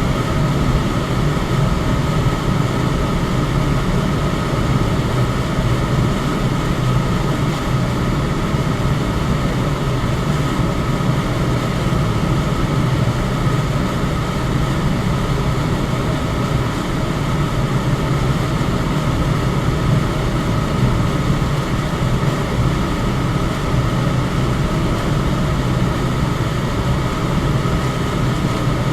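Electric fan running steadily: an even rush of air with a low hum and a faint steady tone above it, unchanging throughout.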